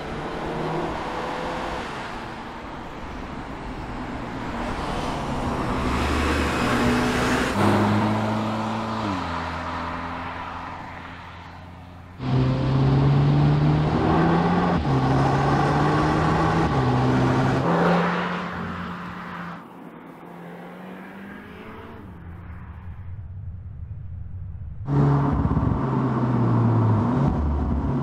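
2021 Audi S3 Sportback's turbocharged 2.0 TFSI inline-four accelerating hard through the gears, its pitch climbing and then dropping back at each upshift several times. The loudness jumps abruptly about twelve and twenty-five seconds in.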